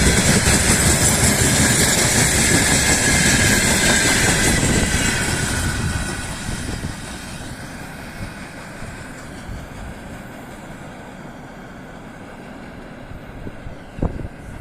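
Freight train running past on the rails, loud at first, then fading away over a couple of seconds about five seconds in and staying faint.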